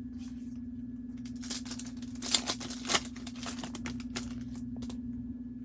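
Trading-card pack wrapper being torn open and crinkled, a burst of rustling and tearing with two sharper rips around the middle, over a steady low hum.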